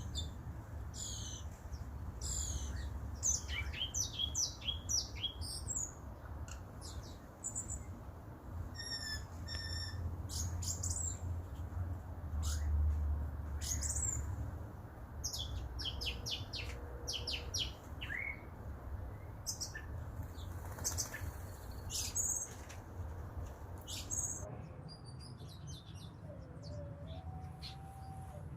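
A flock of white-eyes (pleci) chirping: many short, high, quick notes overlapping one another, over a steady low rumble.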